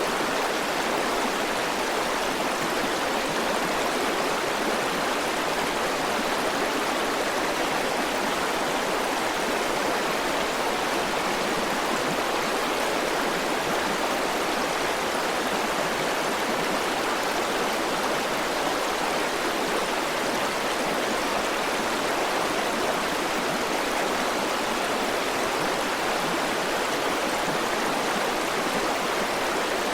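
River water flowing steadily over rocks, an even rushing sound that does not change.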